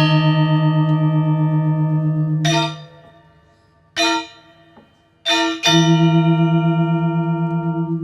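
Bell-like instrumental music: struck metallic notes ringing on in a low chord with a slow wavering beat. The notes fade away about three seconds in, a single strike sounds at about four seconds, and fresh strikes at about five and a half seconds bring back the ringing chord.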